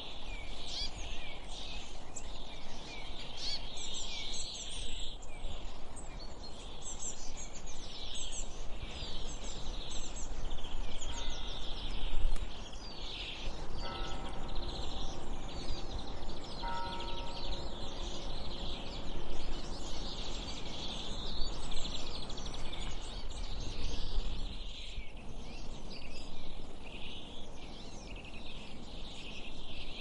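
Many birds chirping and singing over a steady low rumble, with a faint held pitched sound for a few seconds around the middle.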